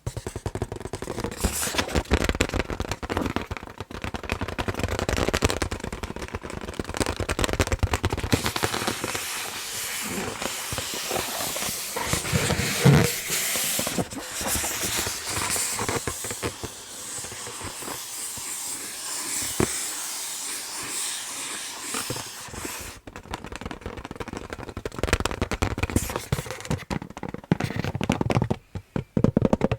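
Fingers tapping and scratching on an inflated balloon: quick tapping for the first several seconds, then a long stretch of hissy scratching with one low thump partway through, then quick tapping again near the end.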